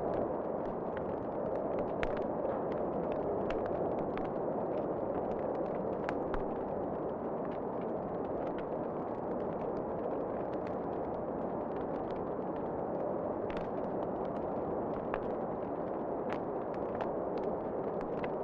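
Fireplace wood fire crackling, with irregular sharp pops over a steady low rushing of wind.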